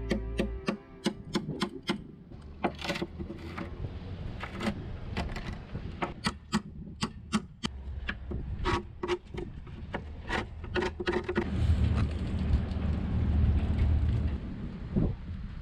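A run of sharp, irregular clicks and taps, then a steady low rumble from about eleven seconds in.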